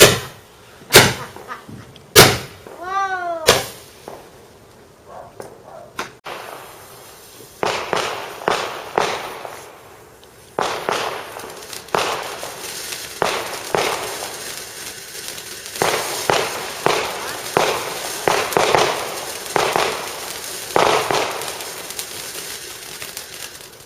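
Fireworks going off: four loud sharp bangs in the first few seconds, then from about seven seconds in a long run of repeated bangs, one or two a second, like a multi-shot firework cake.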